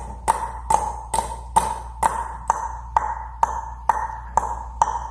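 A short ping with a brief ring, repeated evenly a little over twice a second.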